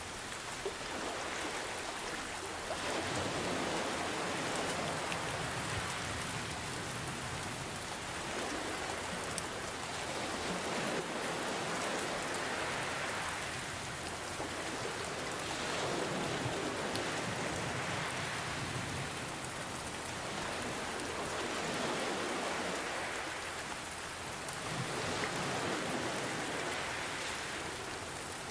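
Steady rain falling, with ocean waves swelling and receding in slow surges every several seconds.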